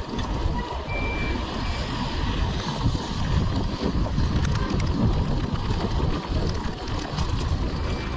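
Wind rushing over the microphone and street traffic noise while riding an electric scooter, with a short high beep about a second in.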